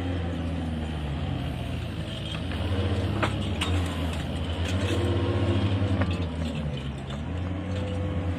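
Engine of a heavy construction machine running steadily, its pitch rising and falling again about four to six seconds in, with a few sharp clicks a little after three seconds in.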